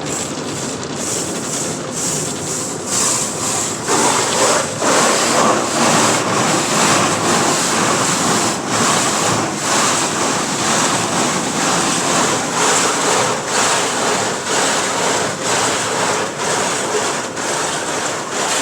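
Inside a car passing through a soft-touch tunnel car wash: a loud, steady rush of water and wash equipment over the body. It gets louder about four seconds in, with a fast, uneven slapping throughout.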